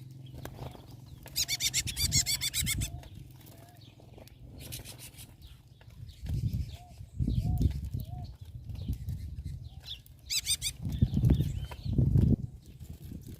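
Birds at a feeding spot: quick rattling chirps come in three short bursts, and there are soft short calls between them. Heavier low fluttering of wings comes twice in the second half and is the loudest sound.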